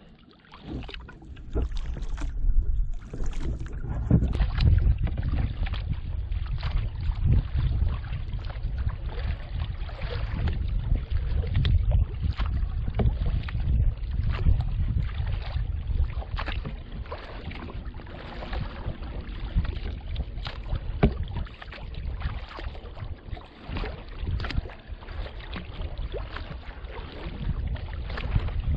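Kayak out on open water: wind rumbling on the microphone, with frequent splashes and slaps of water, beginning about a second in.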